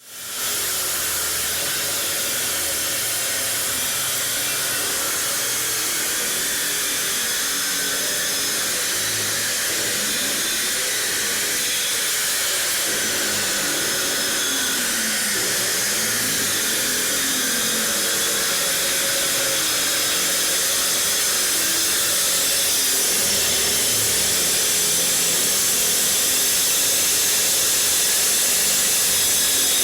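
Electric wall chaser running with a vacuum cleaner drawing dust from it, a steady high hissing grind as its twin diamond discs cut a groove in concrete, slowly getting louder.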